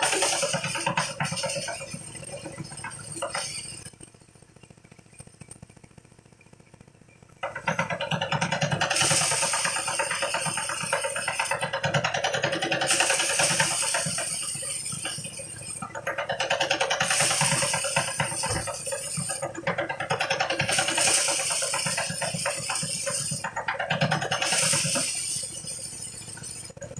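Engine-driven threshing machine running. Its noise swells and eases in repeated surges every few seconds, with a quieter spell about four seconds in.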